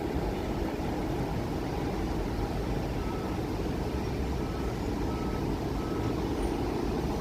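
Steady low engine rumble, with a faint back-up alarm beeping four times starting about three seconds in.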